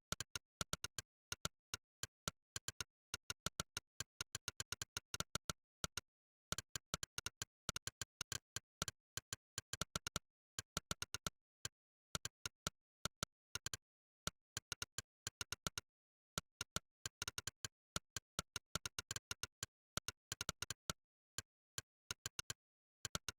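Monkeytype's 'click' typing sound effect: a short synthetic click for each keystroke, in quick runs of several clicks a second broken by brief pauses, with dead silence between clicks.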